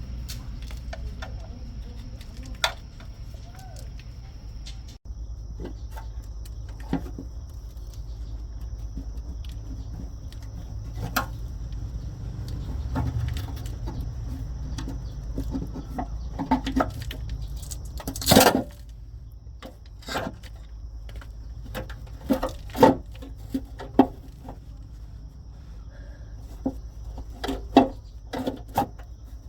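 Scattered short knocks and clicks over a steady low hum, with one louder knock about eighteen seconds in and a quicker run of clicks near the end.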